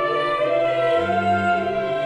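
Early Russian ensemble music: long held notes from voices and bowed strings, the low bass changing to a new note about a second in.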